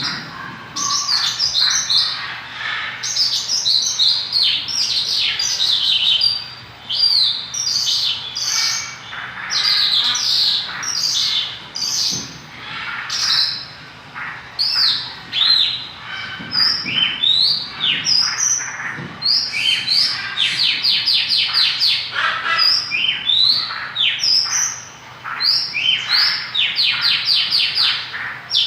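Mongolian lark singing a long, unbroken, varied song of chirps and slurred whistles, with runs of fast repeated notes past the middle.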